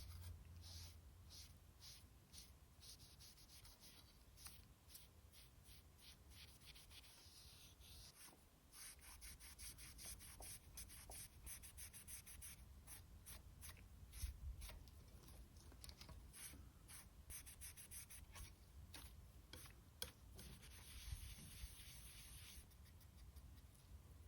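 Rapid back-and-forth brushing and rubbing strokes while cleaning a PS4 Slim's cooling fan, in quick scratchy runs with a short pause partway through and a few sharper knocks.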